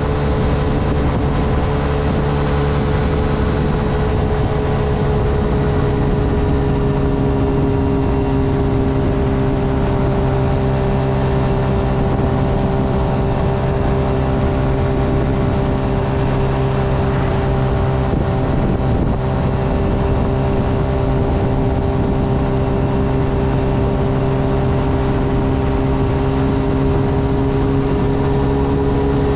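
Small motorcycle engine, a Honda Navi's single-cylinder, running at a steady cruising pace under wind and road noise. The engine note dips slightly partway through and rises a little near the end.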